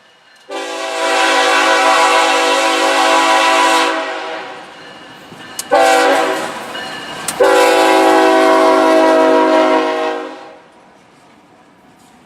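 Diesel freight locomotive's air horn sounding a chord close by: a long blast, a short one, then a long one. Together with the blast just before, this is the long-long-short-long grade-crossing signal.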